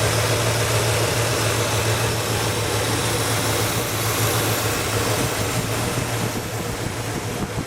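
1967 Cadillac Eldorado's 429 cubic-inch V8 idling steadily.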